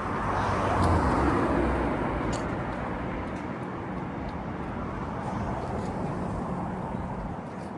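Street traffic: a vehicle passes close by, its engine and tyre noise swelling over about the first two seconds and then fading into the steady hum of city traffic.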